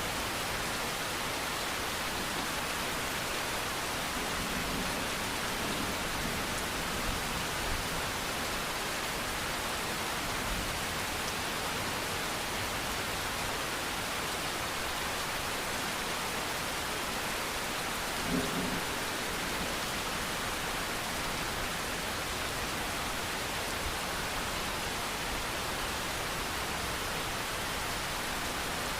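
Steady rain, an even hiss of falling drops with no let-up. There is a brief faint low sound about 18 seconds in.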